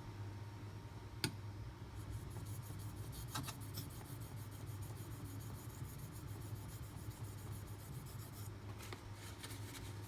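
Brous Bionic XL's D2 steel blade scraping across a whetstone by hand. A quick, even run of light strokes starts about two seconds in and stops about eight and a half seconds in, after a single small click.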